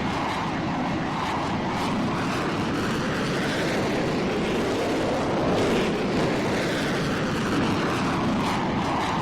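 Airplane engine noise: a steady, loud roar of an aircraft in flight, with a slowly wavering tone.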